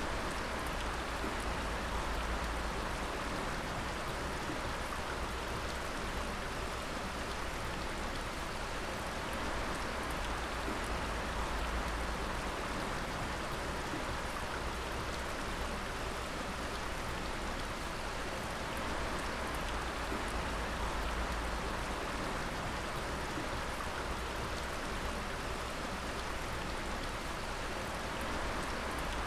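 Water dripping steadily, many drops pattering together into an even, unbroken hiss.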